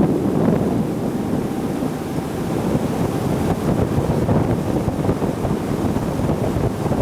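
Wind buffeting the microphone on a center console boat running at speed, with water rushing and splashing along the hull as a steady rough noise.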